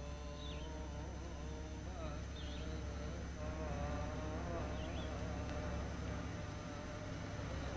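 A car's engine drones low and steady as it approaches slowly, with a few short high bird chirps spaced about a second apart above it.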